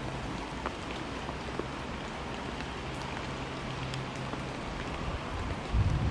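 Steady rain falling in the bush, an even hiss with a few faint drop ticks. A low rumble rises near the end.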